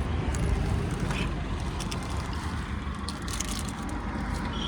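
Steady low rumble of road traffic, with a few faint clicks and rattles.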